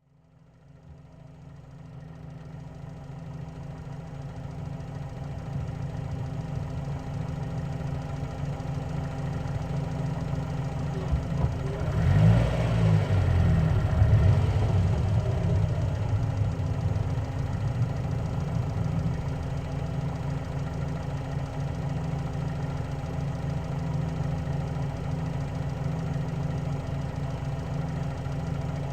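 Car running steadily at motorway speed, a constant engine hum with road noise, fading in over the first few seconds. About twelve seconds in, a louder rushing swell rises over it for a few seconds and then settles back.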